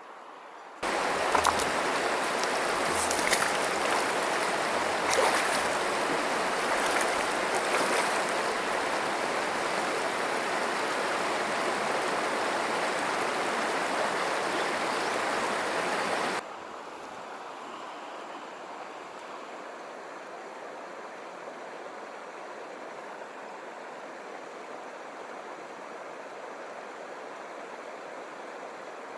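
Mountain stream rushing, loud and close for about sixteen seconds with a few sharp clicks, then cutting abruptly to a quieter, steady flow.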